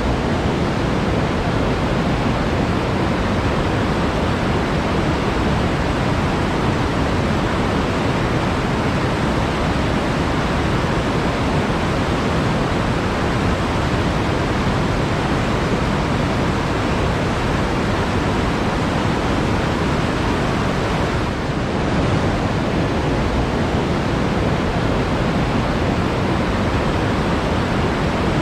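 Steady, even rushing of flowing water in a forest, with a brief slight dip in level about three-quarters of the way through.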